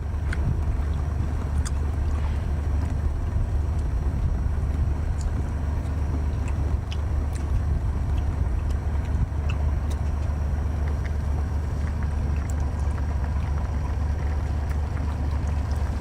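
A boat engine running with a steady low drone, with a few faint clicks scattered over it.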